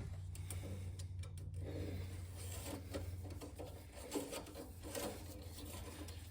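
Engine oil dipstick being drawn from its tube and wiped, making irregular rubbing and scraping sounds over a steady low hum. The engine is off, and the oil level is being checked after an oil change.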